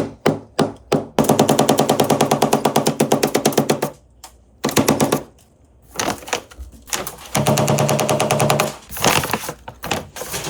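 African grey parrot inside a paper bag making fast runs of rapid taps, about ten a second, as it strikes with its beak at the bag and the surface beneath it, with short pauses between runs.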